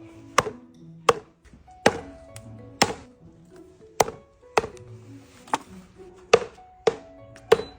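A duck being chopped into pieces on a chopping board: about a dozen sharp chops at an uneven pace, roughly one every half second to a second, over background music.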